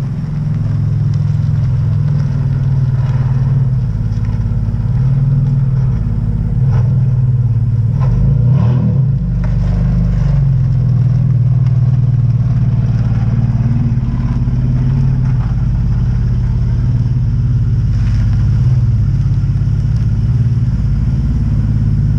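2014 Dodge Charger's 3.6L V6 idling steadily through an aftermarket exhaust, a low, even drone, shortly after a cold start following a month and a half of storage.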